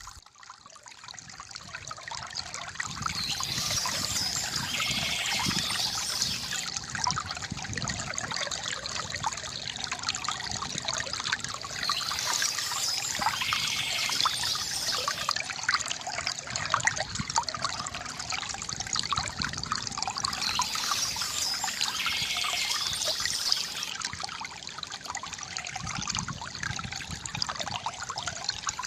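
Shallow river water gurgling and trickling steadily over stones, fading in over the first couple of seconds. Birds chirp softly above the water in spells that come back about every nine seconds.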